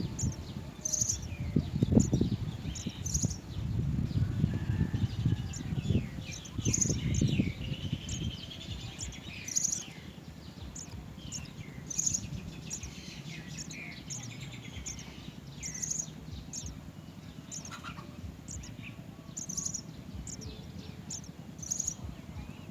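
House sparrows chirping: short, high chirps repeated irregularly throughout. A low rumbling noise sits under them for the first eight seconds or so, then fades.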